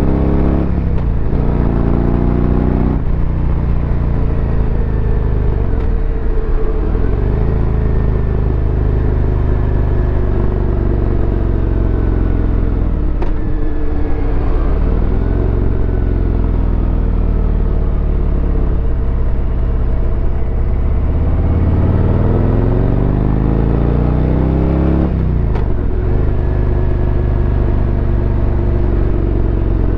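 2023 Harley-Davidson Road Glide's V-twin engine running under way, its revs climbing and dropping back several times, the longest climb coming just before a sharp drop about 25 seconds in.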